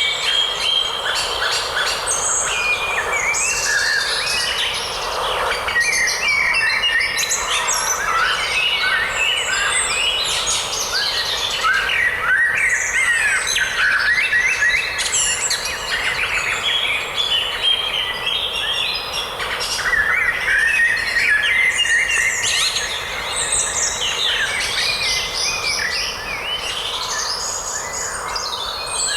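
A dense chorus of many songbirds chirping and singing at once, short overlapping whistled phrases and twitters, over a steady outdoor hiss of forest ambience.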